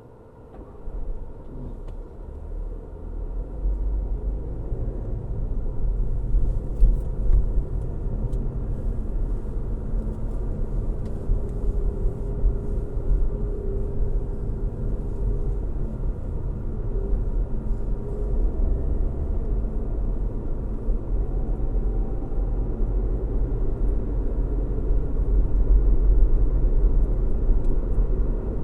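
A car driving on a road: a steady low rumble of engine and road noise. It swells up from quiet over the first few seconds, then holds.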